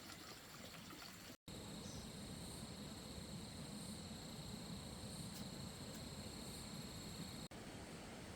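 Faint running stream water with a steady high-pitched insect drone. The sound drops out abruptly about a second and a half in.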